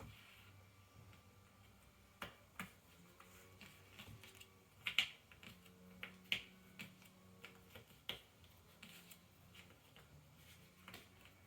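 Cardboard jigsaw puzzle pieces being handled, tapped and pressed into place on a table: irregular light clicks and taps, with two sharper clicks about five and six seconds in.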